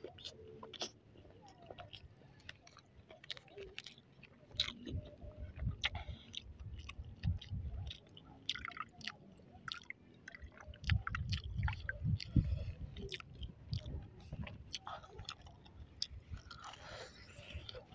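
A person chewing crispy breaded, deep-fried balut close to the microphone: wet mouth sounds with many small clicks and smacks, the chewing strongest in the middle stretch.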